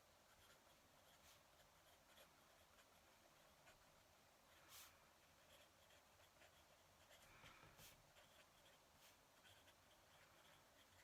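Fountain pen nib scratching across paper in short, faint strokes of handwriting, with a few louder strokes now and then.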